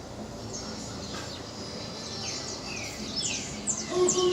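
Small birds chirping: many short, quick chirps, each sweeping down in pitch, becoming busier from about the middle, over a steady background hiss.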